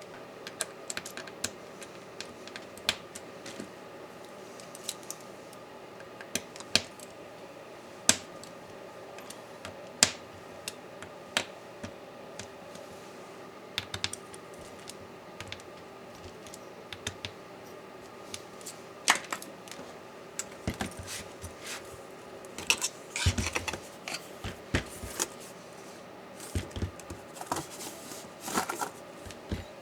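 Irregular small clicks and taps of tools and laptop parts being handled during disassembly, growing busier in the second half with a few dull knocks, over a faint steady hum.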